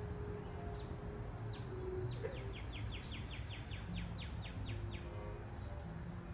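A songbird sings a rapid trill of about fifteen short descending notes, around six a second, starting about a second and a half in and lasting about three seconds. It sounds over a steady low outdoor background noise.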